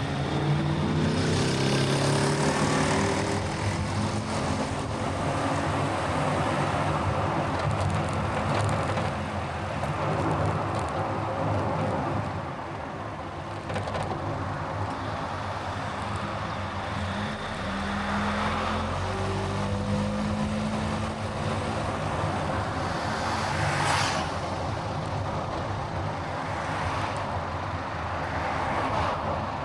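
Car driving in traffic: steady engine and tyre noise, with the engine note rising as it speeds up near the start and again about two-thirds of the way through, and a couple of brief louder swells of passing traffic.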